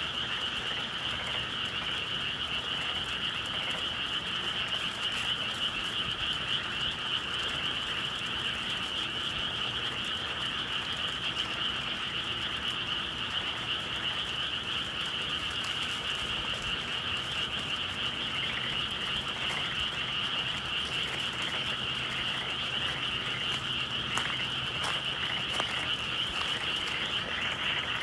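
A dense chorus of many frogs calling without pause, a steady high trilling mass. A few faint clicks sound near the end.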